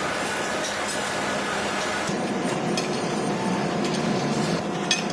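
Factory machinery running steadily in a metalworking shop, with light metallic clinks and a sharp click near the end.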